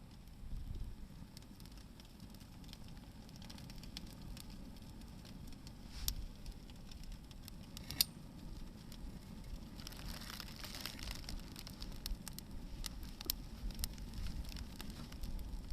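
Hardwood firewood burning in an open fire: steady low flame rumble with scattered crackles and two sharp pops, about six and eight seconds in, and a brief hiss a little later.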